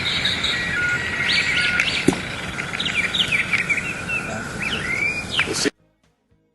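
Several birds chirping and calling in quick, varied notes, some rising and falling, over a steady background hiss of outdoor noise, with one sharp click about two seconds in. The sound cuts off abruptly near the end.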